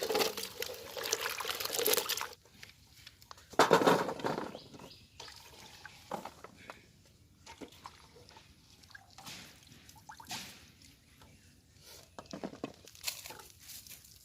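Water pouring and sloshing as chopped onions and chillies are washed. A steady stream for about two seconds, a louder splash around four seconds in, then scattered small splashes and drips.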